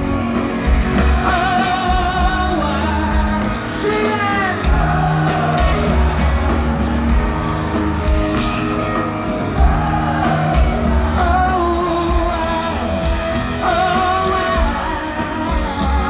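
Rock band playing live through a stadium PA, with long held wordless vocal lines over guitars, bass and drums.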